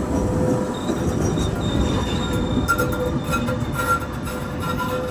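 Gothenburg tram running on its rails with a steady rumble, and thin high squealing tones from the wheels coming and going from about a second in.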